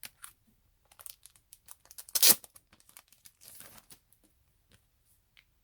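Crinkling and rustling of packaging being handled and opened, in scattered short crackles, with one loud rip-like burst about two seconds in and a brief rustle just over a second later.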